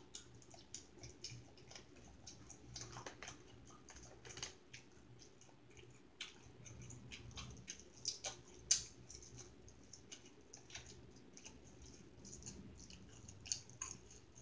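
A person chewing food close to the microphone: irregular soft mouth clicks and smacks, with one sharper click about nine seconds in.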